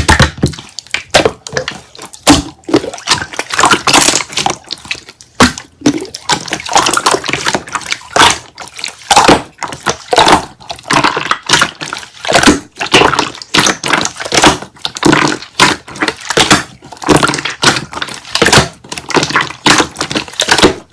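Slime (liquid monster slime) being squished and pressed by hand: dense, irregular wet clicks and pops, several a second.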